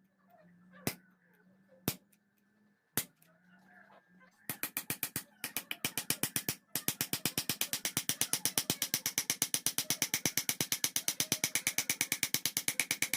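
Sharp metal strikes, first a few single blows about a second apart, then a fast, very even run of about ten blows a second that pauses briefly and carries on, like a power hammer working steel.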